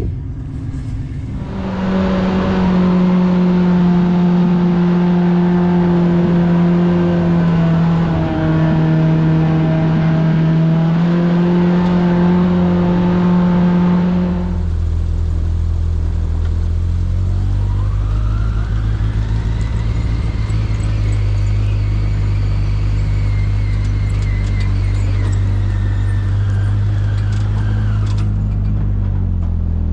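Off-road vehicle engine running at a steady speed, then settling to a lower, deeper note about halfway through, with a whine that rises and falls in pitch.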